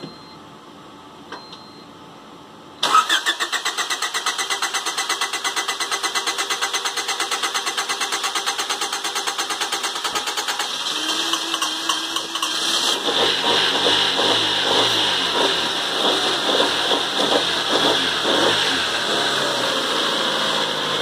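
1989 Honda CRX HF's four-cylinder engine being started for the first time after about five years parked: about three seconds in the starter cranks it with an even rhythmic churn for roughly ten seconds. The engine then catches and runs rough and uneven, steadying toward an idle near the end.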